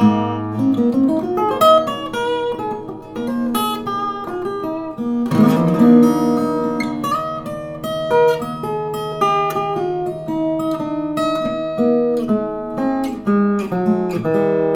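Stafford SLG-360E BS acoustic guitar played solo, picked notes and ringing chords in a flowing melody, with a firmly struck chord about five seconds in.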